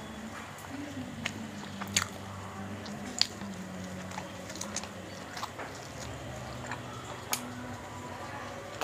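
Close-up mouth sounds of a person eating bhatura with chickpea curry by hand: chewing and wet smacks, with a few sharp clicks, the loudest about two and three seconds in.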